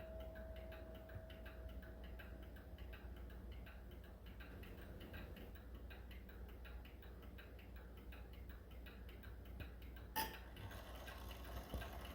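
Seth Thomas beehive mantel clock ticking steadily and faintly. The ring of a strike dies away over the first two seconds, and a single sharp click comes about ten seconds in.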